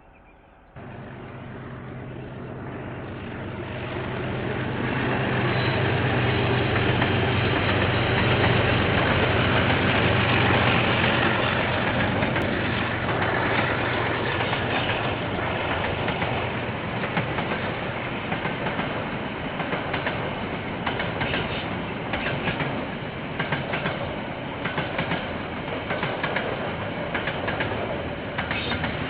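KiwiRail diesel train passing: the locomotive's engine hum swells and passes in the first half. Then the wagons clatter over the rail joints in a rhythmic clickety-clack.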